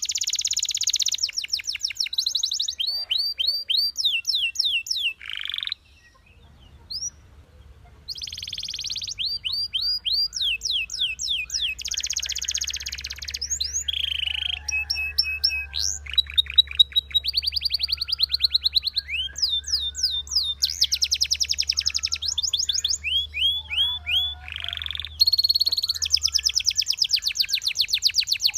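Belgian canary singing: fast rolling trills and runs of repeated sweeping notes in separate phrases, with a break of about two seconds about a fifth of the way in. A faint low hum lies underneath for most of it.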